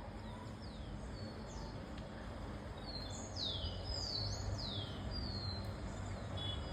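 Bird calls: a series of high, sharply falling whistled notes, coming thickest through the middle, over a steady low background rumble.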